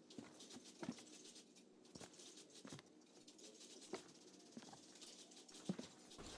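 Near silence: faint room tone with soft, short taps about once a second.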